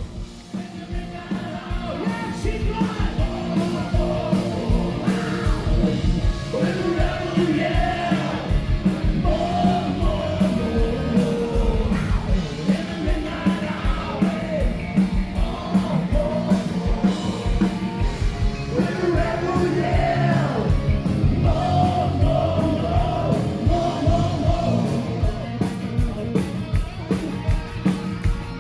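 Live rock band playing a loud, fast number: a steady driving drum beat, electric guitars and a singer, rising in level over the first couple of seconds.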